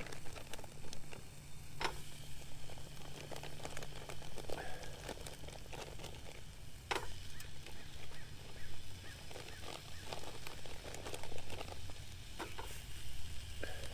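Faint sizzling of hot dogs frying in a pan on a portable stove, over a steady low hum. Two sharp clicks, about two seconds in and about seven seconds in.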